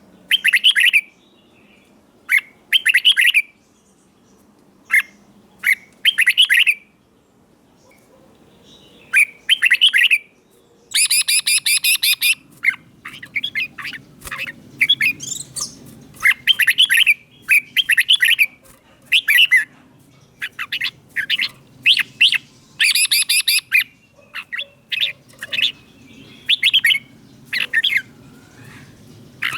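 Red-whiskered bulbul singing: short, bright, bubbly phrases repeated every second or two with brief gaps. Twice, about eleven and twenty-three seconds in, there are denser, harsher runs of notes.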